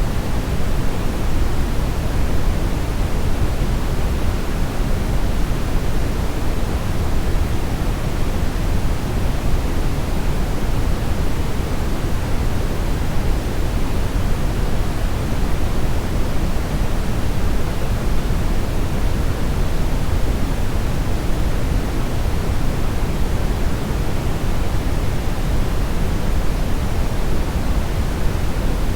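Steady synthetic brownish noise: an even, unchanging rumble-heavy hiss, strongest in the low end and fading toward the highs.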